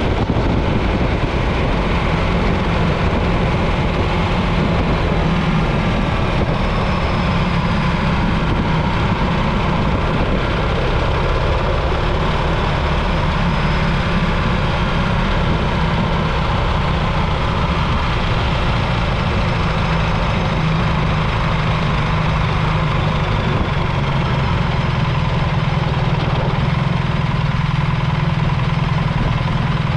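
BMW R 1300 GS motorcycle's boxer-twin engine running steadily under the rider, with road and wind noise over it; the engine note settles slightly lower near the end.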